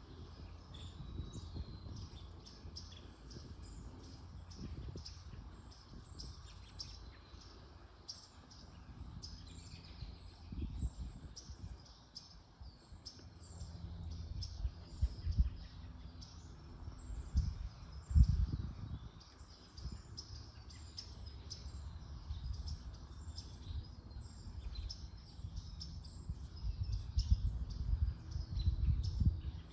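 Small songbirds chirping and twittering on and off throughout. Under them, gusts of wind rumble on the microphone, the strongest about 18 seconds in and again near the end.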